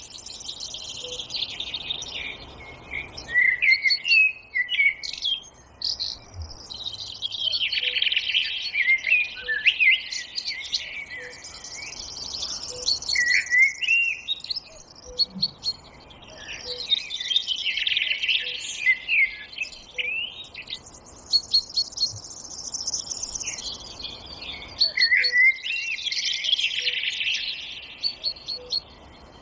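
Several forest birds singing together: overlapping chirps, trills and quick whistled glides that swell in clusters every few seconds and thin out between them.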